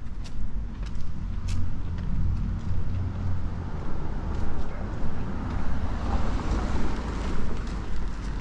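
Street traffic: a passing car's engine rumble, with tyre hiss that swells and fades in the middle.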